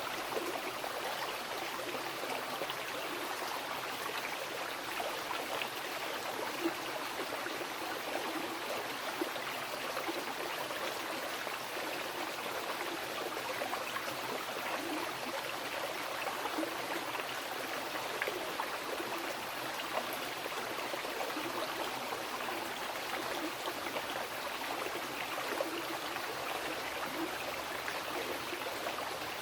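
A mountain river flowing over rocks: a steady rush of water, with small splashes and gurgles flickering through it.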